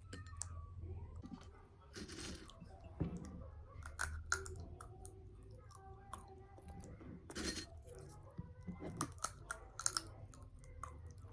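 Scattered clicks, taps and short rustling bursts of small objects being handled, over a steady low hum.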